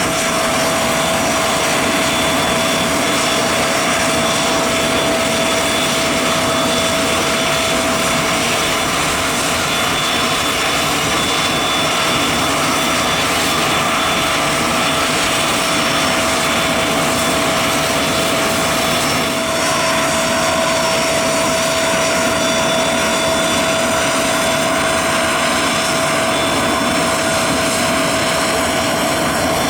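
Aircraft engines running steadily up close: a constant whine over a steady rush of engine noise, with higher tones joining about two-thirds through.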